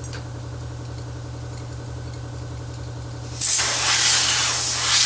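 A steady machine hum, then about three and a half seconds in a loud rush of compressed air starts suddenly and keeps hissing evenly.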